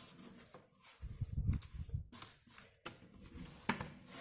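Thick wallpaper paste being spread onto a plasterboard surface: a run of irregular wet scraping and smearing strokes with a few light knocks.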